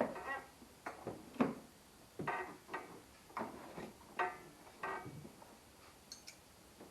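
Irregular clicks and metallic clinks, a dozen or so spread over several seconds, from hand tools and parts being handled while taking apart the intake on a 6.0 L V8.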